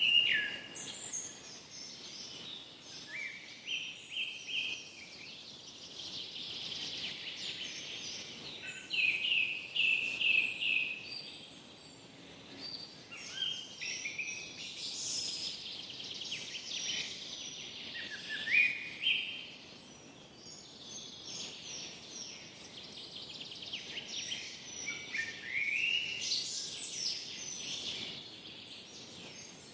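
Forest birdsong: songbirds singing repeated phrases of rapid trills and short rising whistled notes over a faint steady background hiss.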